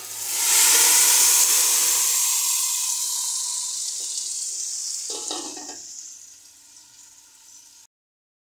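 Blended tomato poured into hot oil with browning coditos pasta in a pot, sizzling loudly at once and dying down slowly over several seconds. It then cuts off suddenly near the end.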